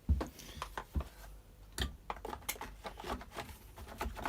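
Irregular light clicks and knocks of strimmer housing parts being handled and fitted together during reassembly, with a couple of duller thuds near the start and about a second in.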